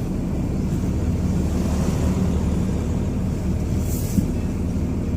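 Ram 2500's Cummins inline-six diesel engine running steadily, heard from inside the cab as a low, even hum.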